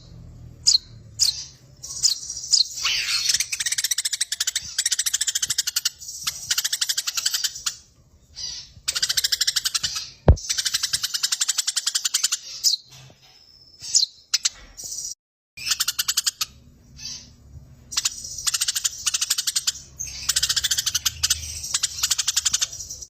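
Eurasian tree sparrows chattering in fast, rattling rolls, the agitated calls of sparrows fighting, in long runs broken by short pauses. A single sharp click comes about ten seconds in.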